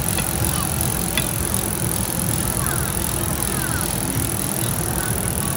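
Steady restaurant background noise, with music playing and faint voices and clinks underneath.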